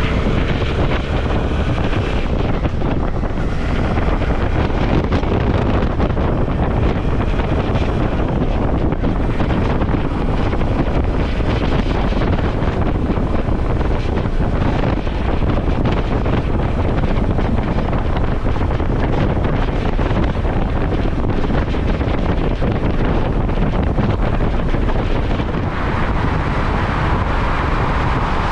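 Wind rushing over the microphone on a moving Suzuki V-Strom motorcycle, with the engine and road noise underneath: a loud, steady rush that hardly changes.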